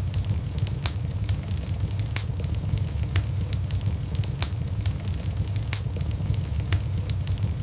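Wood fire burning in a fireplace: irregular crackles and pops, several a second, over a steady low rumble of the flames.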